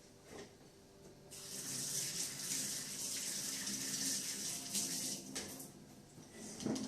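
Water running from a tap, starting about a second in and stopping about four seconds later, with a few light knocks around it.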